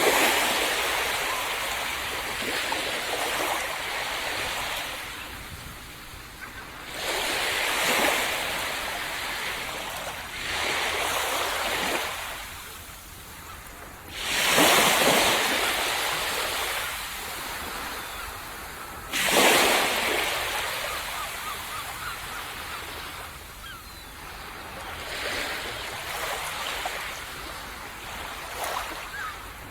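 Waves breaking on a sandy beach every few seconds, each one a sudden crash of surf that fades into a long hissing wash; the strongest breaks come at the very start and about halfway through.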